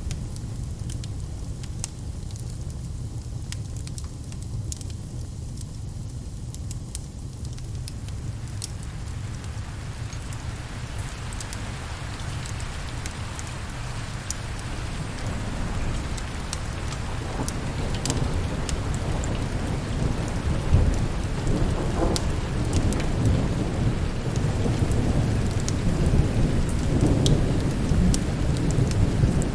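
Steady rain with rolling thunder, the rumble swelling louder through the second half, and scattered sharp ticks and crackles throughout.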